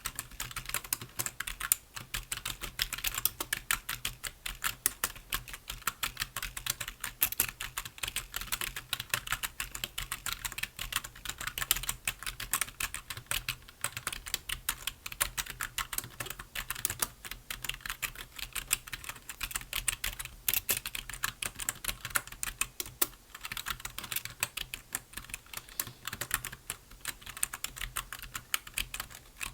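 Continuous typing on a computer keyboard: a dense run of key clicks with no break.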